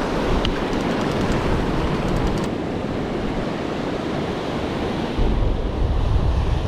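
Ocean surf washing around a wading angler, with wind buffeting the microphone; a few faint ticks in the first couple of seconds, and a heavier low rumble of wind on the microphone from about five seconds in.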